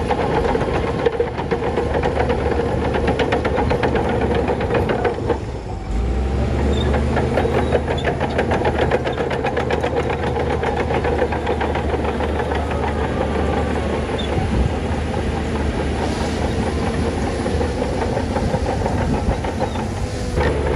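Heavy diesel earthmoving machinery working: a bulldozer's engine running steadily under load with a dense, rapid clatter, dipping briefly about six seconds in.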